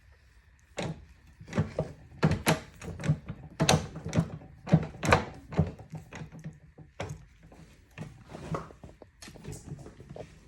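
An irregular run of hard knocks and clunks, more than a dozen, starting about a second in and loudest over the next five seconds before thinning out.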